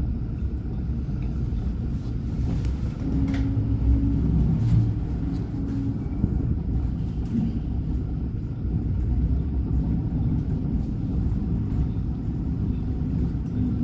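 Alstom NGT8D low-floor tram in motion, heard from inside: a steady low rumble of running gear on the rails, with a brief steady hum about three to four seconds in.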